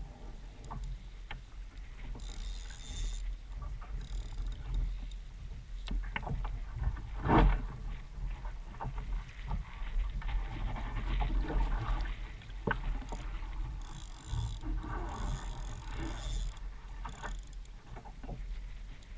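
Water splashing and lapping around an Ocean Kayak Trident Ultra 4.3 sit-on-top fishing kayak at sea, with scattered knocks on the hull, the loudest about seven seconds in, over a steady low wind rumble on the microphone.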